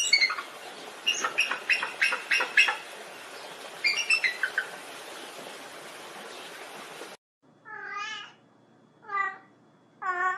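A run of short, high chirps in quick clusters over a steady hiss, which cuts off suddenly about seven seconds in. A domestic cat then meows three times, each meow short and falling in pitch.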